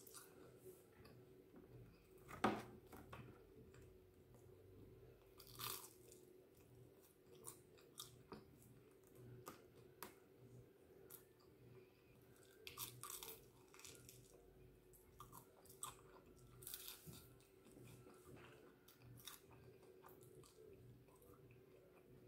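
A person biting and chewing a chicken wing close to the microphone, with irregular crunches and small mouth clicks. The loudest crunch comes about two and a half seconds in.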